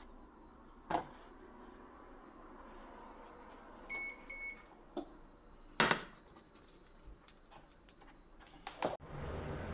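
Two short electronic beeps from a kitchen appliance about four seconds in, among scattered clicks and clatters of kitchen handling, the loudest clatter about six seconds in. Near the end a steady rushing noise starts abruptly.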